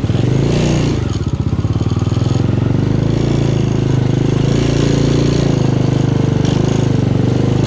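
Motorcycle engine running steadily while riding, its rapid exhaust pulses even throughout.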